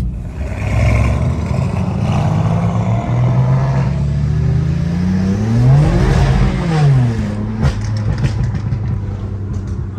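Car engines running, with one engine rising in pitch to a peak about six seconds in and then falling away.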